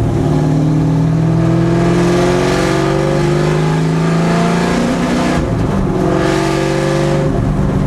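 Loud 1989 Fox Body Mustang race car engine pulling hard under acceleration, its pitch climbing steadily through one gear, a brief drop at an upshift about five seconds in, then climbing again in the next gear.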